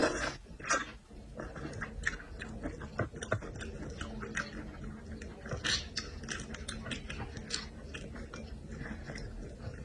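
Close-miked chewing and mouth sounds of someone eating seafood: irregular wet smacks and clicks, with a louder burst right at the start.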